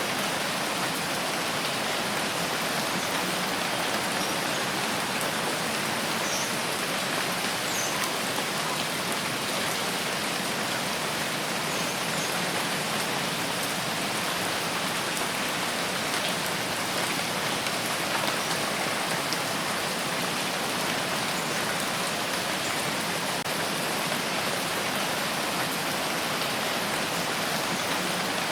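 Steady rain falling and pattering on surfaces, an even hiss with a few distinct drops now and then.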